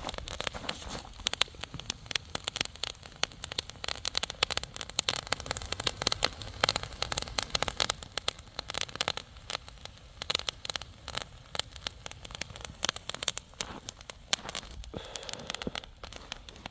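Bonfire crackling and popping, dense irregular snaps as a fire of dry grass and frost-damp wood catches.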